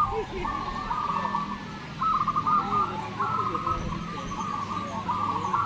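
Several zebra doves (perkutut) cooing at once, their rhythmic trilled coo phrases overlapping and repeating without a break.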